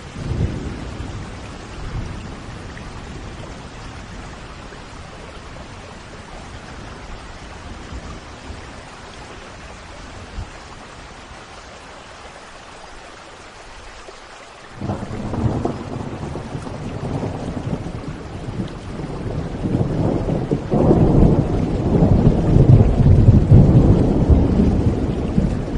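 Thunderstorm: steady rain falling, with a low rumble of thunder just after the start. Halfway through, a long rolling peal of thunder breaks in suddenly and grows louder, at its loudest near the end.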